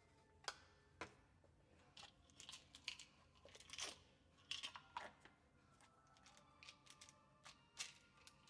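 Faint scattered clicks, taps and rustles of small objects being handled, a dozen or so short sounds with the busiest stretch in the first five seconds.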